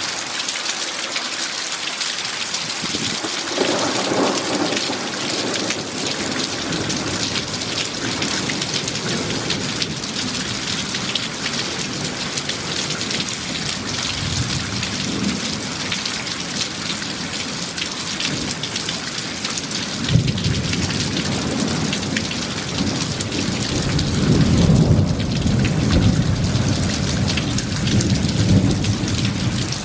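Heavy rain falling steadily with thunder rumbling: a low rumble swells about four seconds in, and a longer, louder rolling rumble begins about twenty seconds in and peaks near the end.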